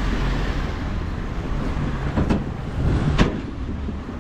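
Steady rumble of road vehicles, with two sharp knocks about two and three seconds in.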